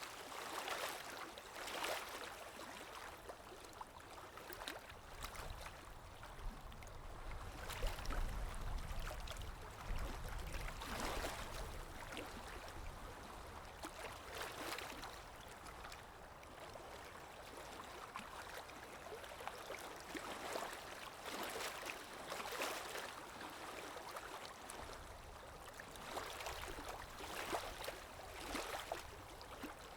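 Underwater water ambience: a continuous wash of moving water that swells every second or two, with a low rumble from about eight to eleven seconds in.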